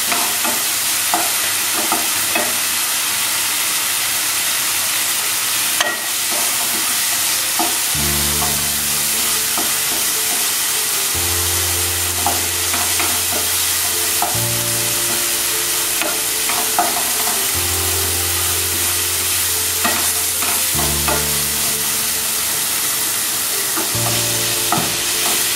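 Masala with chopped tomato and green chillies sizzling steadily in hot oil in a non-stick kadai, with the light scrape and tap of a wooden spatula as it is stirred; the spices are being fried down until the oil separates.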